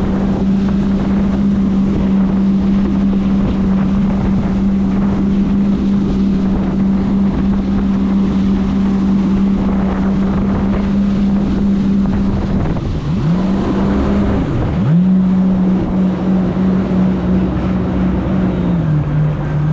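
Jet ski engine running at high, steady revs, with wind noise on the microphone. Partway through, the throttle drops off and comes back twice in quick succession, and near the end the engine settles to lower revs.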